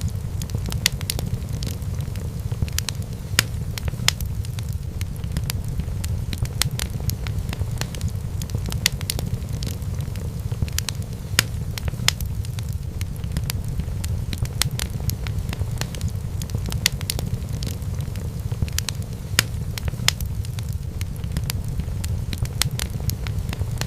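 Wood fire in a fireplace crackling, with frequent sharp pops at irregular intervals over a steady low rumble.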